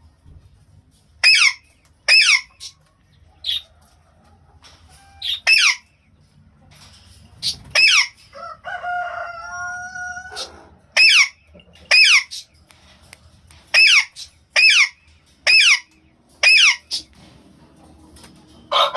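Alexandrine parakeets giving loud, harsh screeches, each short and falling in pitch, singly or in quick pairs about a second apart, with a pause of a few seconds around the middle.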